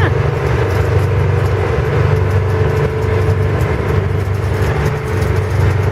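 Ten-wheeler truck's engine running steadily while driving, heard from inside the cab: a loud, even drone.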